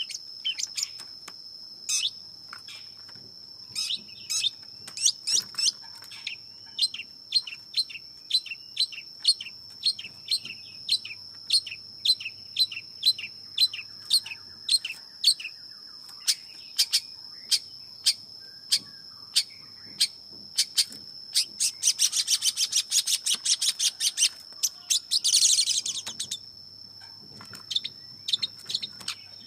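Long-tailed shrike (cendet) calling with short, sharp notes repeated about one to two a second, breaking into a rapid, dense chattering run for a few seconds past the two-thirds mark. A steady thin high tone runs underneath throughout.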